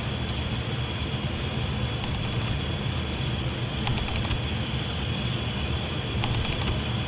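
Steady cockpit noise of an Airbus airliner on short final: an even rush of airflow and engines with a thin high steady tone, and scattered light clicks and rattles.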